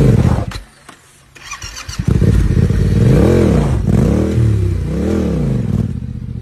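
Motorcycle engine revving. The sound drops away about half a second in and comes back about two seconds in, then rises and falls in pitch three times as the throttle is blipped.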